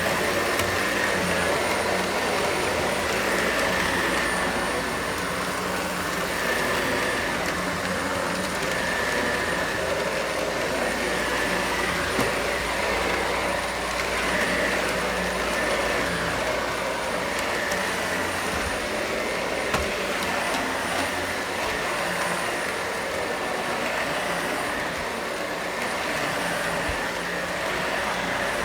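Vacuum cleaner running steadily, with a high whine that comes and goes a little.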